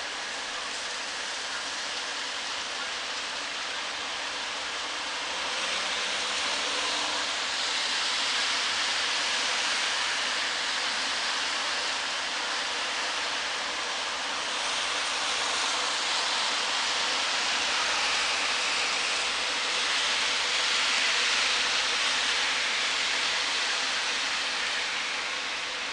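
Wind rustling through tree foliage: a continuous leafy hiss that swells in gusts, first about a fifth of the way in and again through the middle to near the end.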